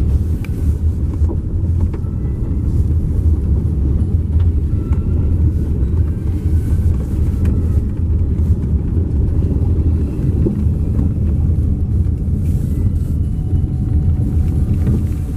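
Vehicle driving, a steady low engine and road rumble.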